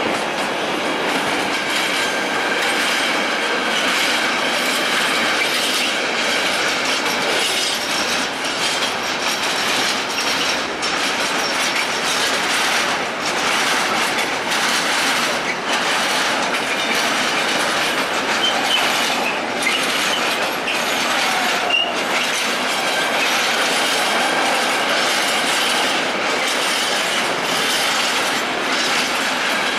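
Container freight train behind an electric locomotive rolling past, a continuous rumble with wheels clacking over rail joints throughout. A brief wheel squeal comes about two-thirds of the way in.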